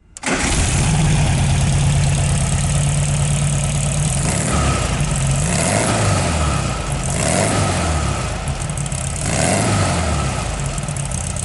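1968 Volkswagen Baja Bug's 1500cc air-cooled flat-four engine idling steadily, then revved up and back down three times.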